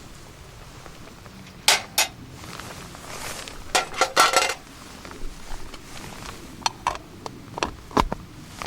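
Metal camp cookware and utensils being handled, clinking and knocking: two sharp clinks, then a rattling cluster with a brief metallic ring about four seconds in, and a string of lighter knocks near the end.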